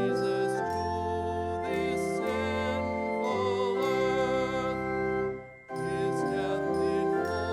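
Church organ music: held chords, some notes wavering, with a short break between phrases about five and a half seconds in.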